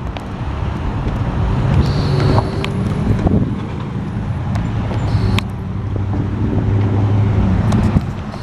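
Road traffic going by: motor vehicle engines and tyres rumbling, swelling twice as vehicles pass.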